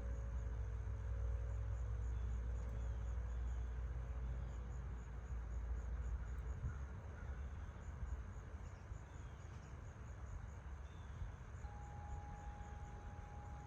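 Large Corinthian Bells wind chimes ringing in gusty wind: a held chord fades away over the first few seconds, and a fresh tone sounds near the end and rings on. Wind rumbles on the microphone, heavier at first, while crickets chirp steadily in the background.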